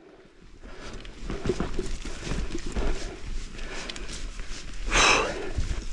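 Mountain bike rolling over a rough trail: a steady rumble of wind on the helmet-camera microphone with scattered small rattles and knocks. A louder rush comes about five seconds in.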